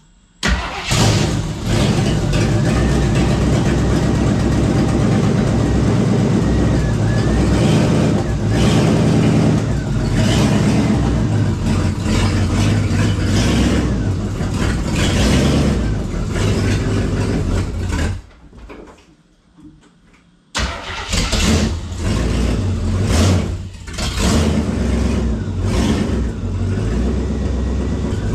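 AMC 360 V8 in a 1976 AMC Gremlin starting up and running, revved in repeated throttle blips as the car is driven. It goes quiet for about two seconds near two-thirds of the way through, then runs again. The owner thinks the ignition timing may be off.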